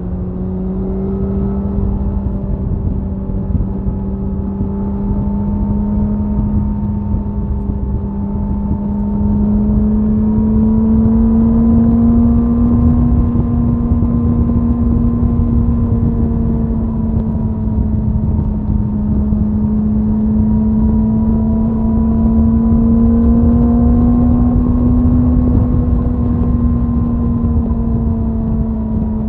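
Suzuki Hayabusa's inline-four engine and exhaust at steady high-speed cruise: one even drone whose pitch rises slightly twice, with heavy wind rush on the microphone.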